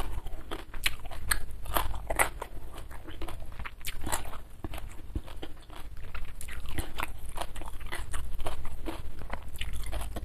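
Close-miked chewing, with many sharp, irregular crunches of crisp food.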